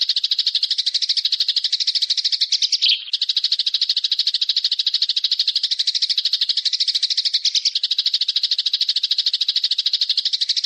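A songbird's fast, continuous chattering trill, rapid even pulses repeated without let-up, broken only briefly about three seconds in. It is a looped call of the kind played to train cage birds.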